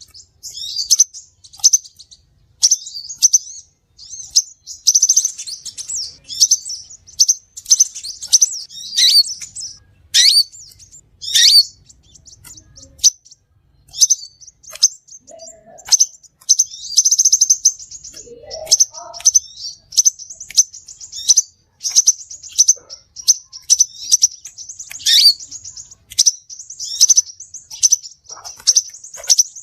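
Crimson sunbird calling: a rapid, continuous run of sharp, high chirps and twitters, with a couple of quick downward-sweeping notes about ten and eleven seconds in.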